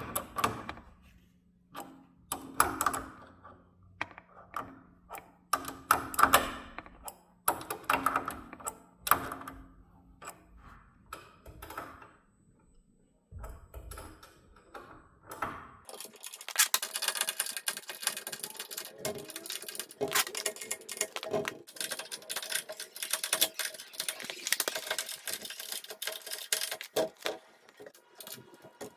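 Metal parts of an automatic sliding door's mechanism knocking and clinking as they are worked on: separate knocks with short ringing at first, then from about halfway a dense, continuous rattling clatter.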